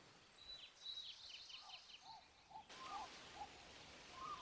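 Faint forest ambience of bird chirps: a quick run of short, high, falling chirps, then a slower series of lower chirps.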